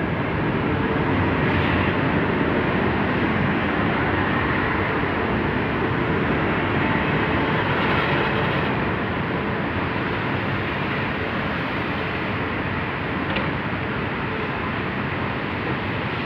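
Finnish Sm2 electric commuter train moving slowly along a station platform: a steady rumble of the running gear and traction equipment, a little louder in the first half.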